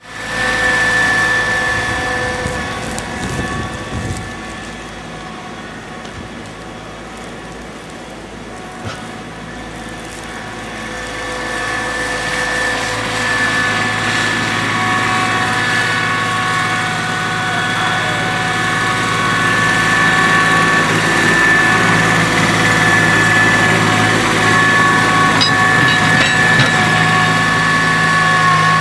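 Kubota B7510 compact tractor's three-cylinder diesel engine running steadily while plowing snow, with a high steady whine over the engine note. It grows louder about halfway through.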